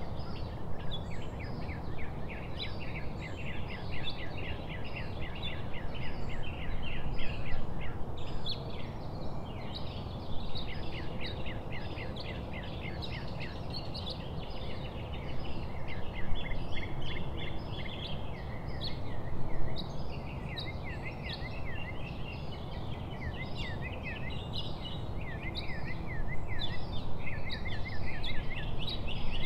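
Many birds chirping in quick, repeated short calls, over a steady low rumble of outdoor noise.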